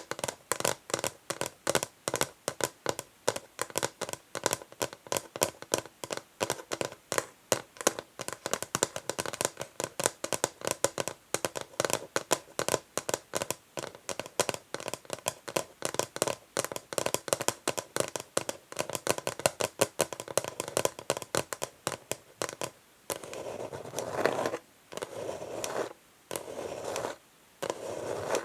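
Fingernails working on an old wooden chess board: quick, short scratching and tapping strokes at about three a second, then near the end a few longer, drawn-out scratches of about a second each.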